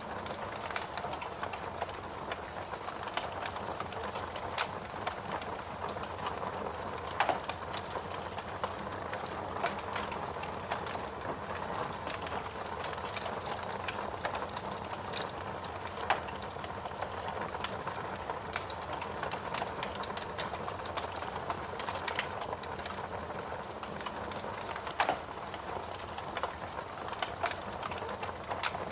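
Wood logs burning in a fireplace, crackling steadily with a constant patter of small snaps and several louder pops.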